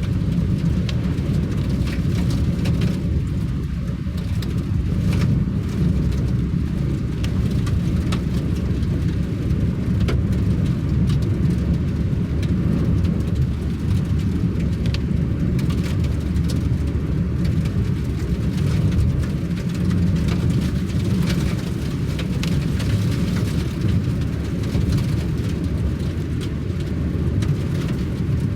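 Vehicle driving in rain: steady low road and engine noise, with scattered ticks of raindrops throughout.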